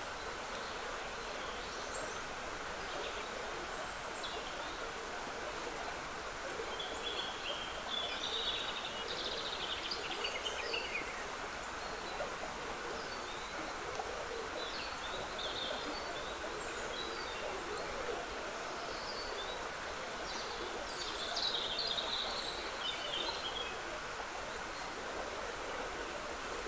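Small stream trickling steadily, with woodland birds singing over it; the louder song phrases come about a third of the way in and again about four-fifths of the way through.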